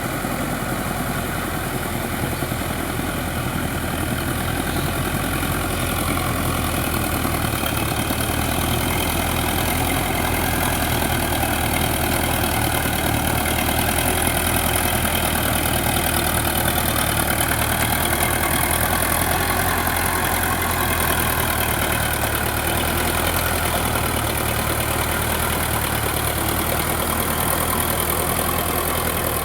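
Sonalika DI 750 tractor's diesel engine running steadily, growing a little louder midway.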